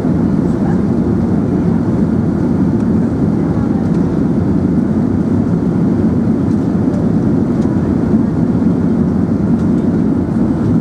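Steady low rumble of an Airbus A380 heard from inside the cabin: engine and airflow noise.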